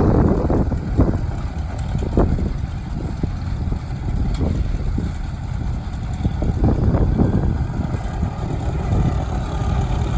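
Farmall M tractor's four-cylinder engine running steadily at idle, with a few irregular louder surges.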